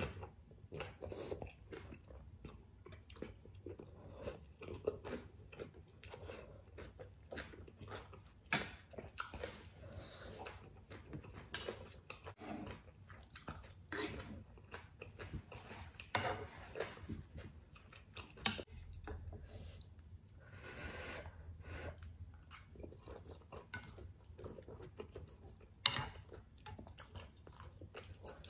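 Close-up chewing and wet mouth sounds of a person eating spicy seafood ramen with squid and prawns, irregular smacks and clicks throughout. A few sharper clicks stand out, the loudest near the end.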